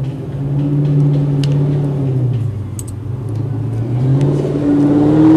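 A motor vehicle engine running and revving, its pitch sagging about halfway through and climbing again near the end, with small scattered clicks.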